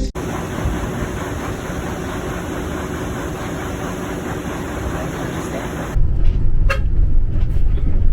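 Motor vehicle on the road: steady engine and road noise. About six seconds in it turns louder and heavier with a low rumble.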